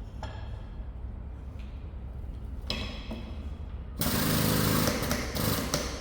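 Steady low workshop hum. A short rattling burst of a power tool comes about three seconds in, and a louder one lasting about two seconds comes near the end.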